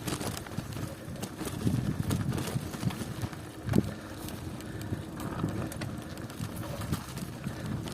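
Bicycle riding over a rough country road: a steady rumble with rattling clicks and knocks, and one sharper knock about halfway through.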